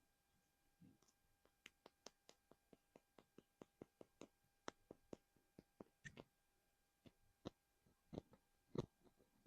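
Light fingernail taps on a small plastic collectible, close to the microphone: quick irregular clicks, two or three a second, with a few heavier taps in the second half.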